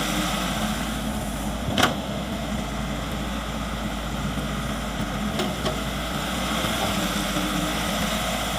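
Caterpillar excavator's diesel engine running steadily, with one sharp knock a little under two seconds in and a couple of faint ticks later.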